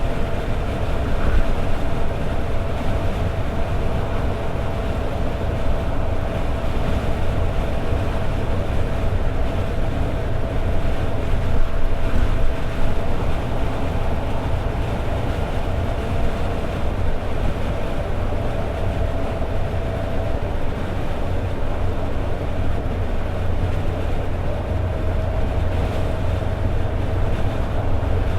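Toyota AE86 Sprinter Trueno with a 4A-GE 20-valve engine cruising at steady highway speed: a constant engine drone with road and tyre noise. A thin steady tone runs over it, dropping out for a few seconds about two-thirds of the way through.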